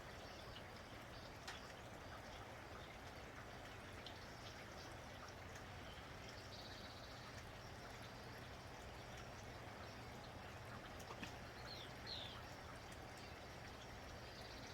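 Steady light rain falling, with a few sharp drips, and short bird chirps twice, once about halfway and again near the end.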